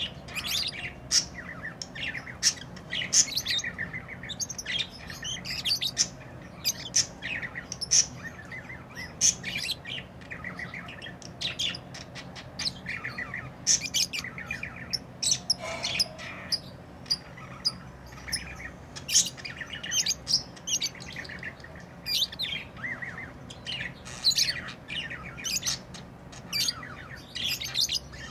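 Pet lovebirds chirping and squawking non-stop, a dense stream of short, high, overlapping calls.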